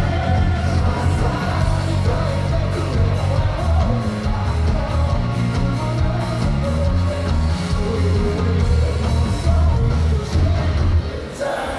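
A rock band playing a song live, with drums, bass and electric guitars under a singer. The bass and drums drop out briefly near the end before the band comes back in.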